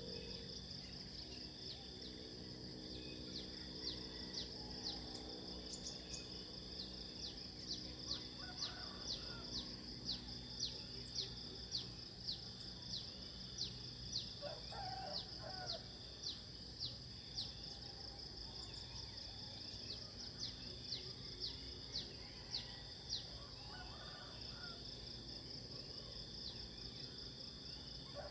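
Outdoor nature ambience: a steady high-pitched insect drone, with a bird repeating short falling chirps over and over.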